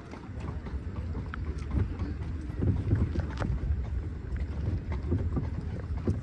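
A horse-drawn carriage on the move: the wheels rumble steadily over the pavement, with scattered hoof clops and wind on the microphone. The rumble grows louder about half a second in.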